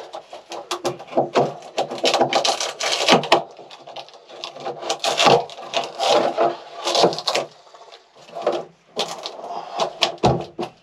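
Irregular knocking, clattering and scraping of wood as interior woodwork of a small sailboat is pried and pulled loose, with no power tool running.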